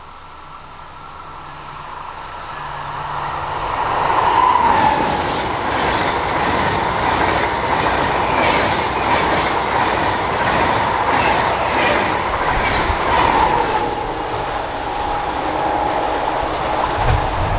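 Electric train passing on an electrified mainline. It grows louder over the first four seconds, then holds a steady rush with rhythmic clickety-clack of wheels over the rails and a steady high whine.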